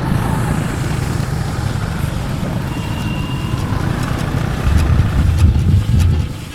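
Motor vehicle traffic, engines and tyre noise in a steady low rumble, swelling louder for about a second and a half near the end as a vehicle passes close.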